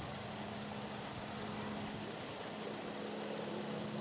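An engine idling steadily, a low even hum, under a constant hiss.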